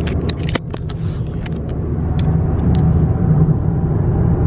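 Steady low rumble of a car's engine and road noise heard inside the cabin, with a few sharp clicks and taps in the first second and a half.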